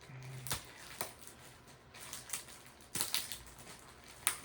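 A parcel's wrapping being worked open by hand: a few sharp, irregular clicks and crackles of tape and packaging.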